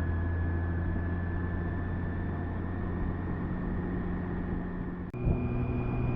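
BMW K1600B's six-cylinder engine running steadily while riding, with wind and road noise. About five seconds in there is a click and a brief drop, after which the engine note settles higher in pitch.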